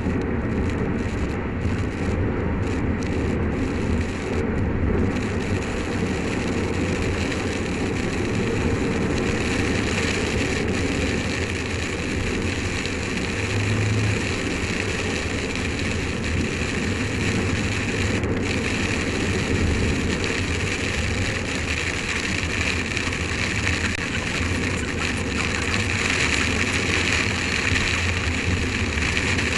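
Rain hitting a car's windscreen, recorded by an in-car dash camera and sped up to twice normal speed, giving a steady static-like hiss over the car's low road and engine rumble. The hiss grows stronger about a third of the way in.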